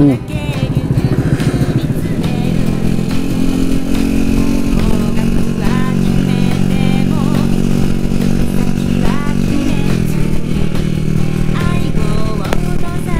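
Honda Super Cub's small single-cylinder four-stroke engine running steadily on the road, its note dropping about five seconds in and again near ten seconds in as the speed changes.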